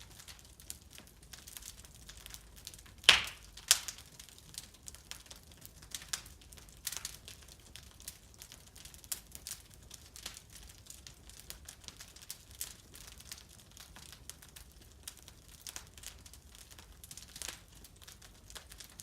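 Wood fire burning in a fireplace, crackling with a steady scatter of small snaps and pops; two sharp, much louder pops come close together about three seconds in.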